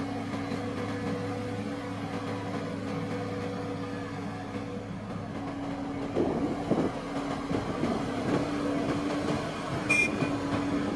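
Engine of farm machinery, such as a tractor or rice harvester, running steadily with an even hum, with some rattling about six seconds in and a short sharp click near the end.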